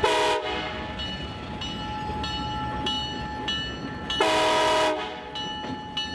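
Air horn on Alco C420 diesel locomotives sounding a multi-note chord: a short blast at the start and a longer blast about four seconds in. Between the blasts the locomotive bell rings about one and a half strokes a second over the low rumble of the diesels.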